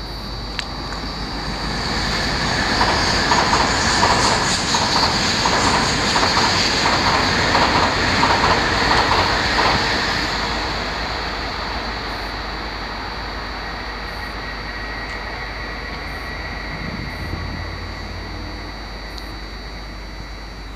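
A train going by on the tracks, its wheels clattering rhythmically over the rails. It builds up over the first couple of seconds, stays loud for several seconds, then fades slowly away.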